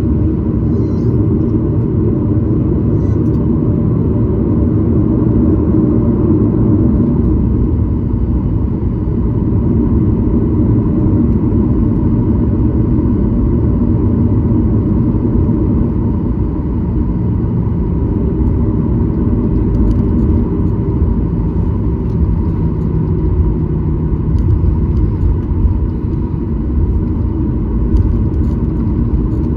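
Steady low rumble of a Boeing 737-900ER's CFM56-7B jet engines and airflow, heard from inside the passenger cabin, with faint steady tones above it and no clear rise or fall in pitch.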